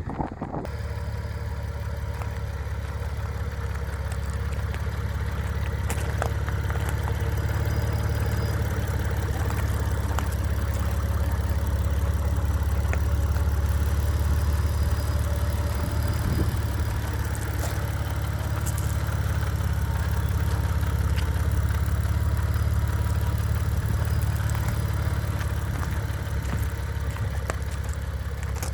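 The 1990 Mitsubishi GTO Twin Turbo's 3.0-litre twin-turbo V6 idling steadily, with a constant low hum.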